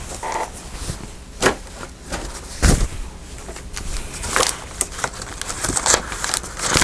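Paper ephemera being handled and sorted on a work table: scattered rustles and light taps, with a dull knock about two and a half seconds in.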